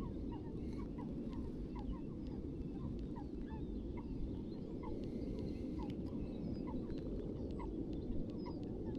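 A bird calling in a long series of short, repeated notes, about two a second, over a steady low rumble.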